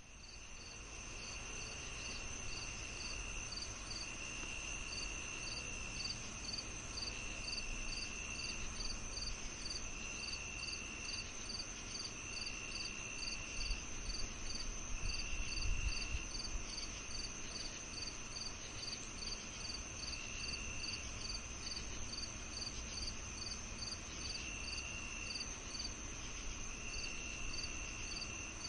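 A chorus of crickets and other insects calling together: one steady high trill, a regular chirping of about two to three chirps a second, and a lower buzzing call that comes in bouts of a second or so every couple of seconds, over a faint low rumble.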